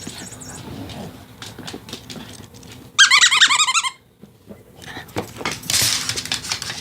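Mouse cat toy squeaking: a loud run of rapid, evenly repeating high chirps lasting about a second, starting about three seconds in, amid soft clicks and scuffling.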